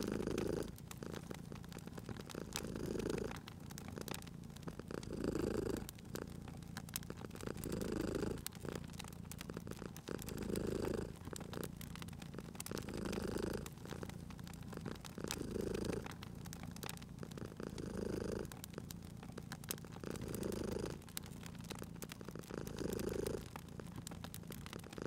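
Domestic cat purring steadily, swelling with each breath about every two and a half seconds, over the light crackle and popping of a wood fire.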